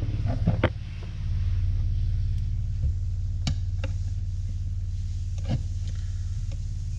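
A steady, low mechanical hum that grows louder about a second in and then holds even, with a few sharp clicks and taps of small parts being handled over it.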